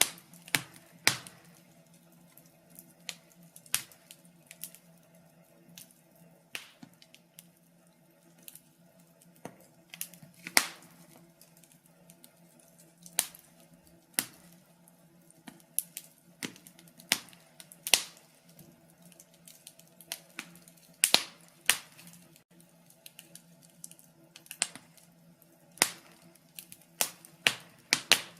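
Wood fire crackling in a fireplace: irregular sharp pops and snaps, sometimes in quick pairs or clusters, over a faint steady low hum.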